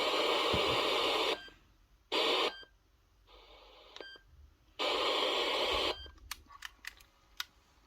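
Bursts of static-like hiss from the Walkman that cut in and out abruptly several times, then a quick string of sharp clicks near the end.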